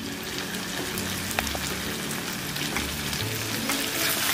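Chicken leg pieces and tomato masala sizzling in a non-stick kadai, with scattered small crackles; the sizzle gets a little louder near the end.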